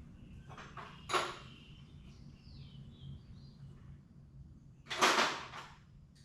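Handling noises from working on the UTV's door panels and their hardware: a short metallic clink about a second in, then a louder scrape lasting under a second about five seconds in.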